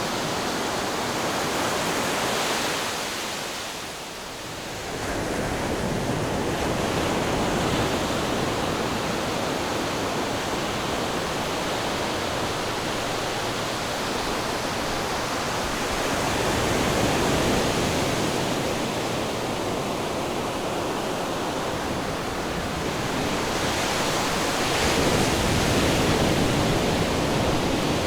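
Ocean waves rushing and washing ashore in a continuous wash of surf. The surf eases off briefly about four seconds in and swells up again twice later on.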